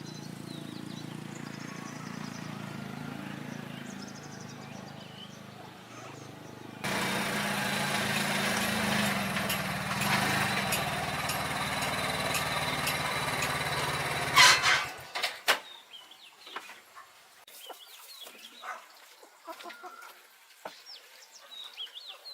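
An engine running steadily that stops abruptly with a knock about two-thirds of the way through, followed by chickens clucking and small birds calling.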